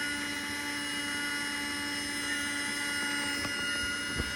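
Battery-powered mini Henry desk vacuum's small motor running with a steady, high whine while it picks up crumbs. It cuts off about three and a half seconds in.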